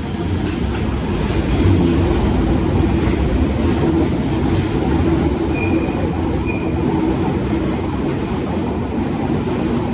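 London Underground train running on the rails: a steady, continuous rumble with a low hum, and two brief high squeals past the middle.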